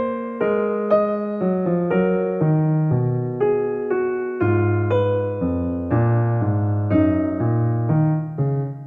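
Background piano music: a gentle melody of single notes, about two a second, over low bass notes.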